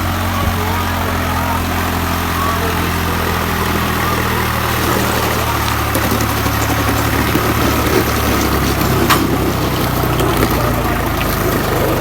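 Swaraj 834 XM tractor's three-cylinder diesel engine running steadily; its note changes about five seconds in, with a single sharp tick near nine seconds.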